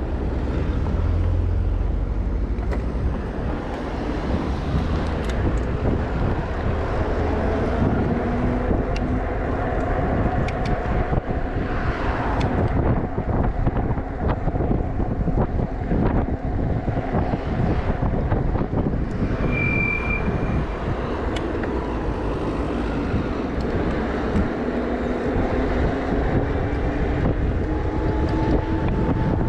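Wind rumbling on the microphone of a moving electric bike, with scattered knocks and a faint whine that slowly shifts in pitch.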